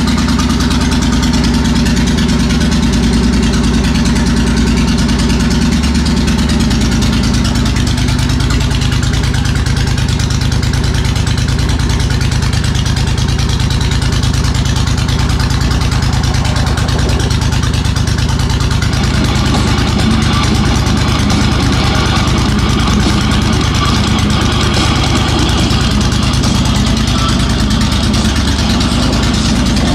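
Suzuki VS1400 Intruder's V-twin engine running loud and steady at idle through a Jardine full-system slashcut drag pipe exhaust.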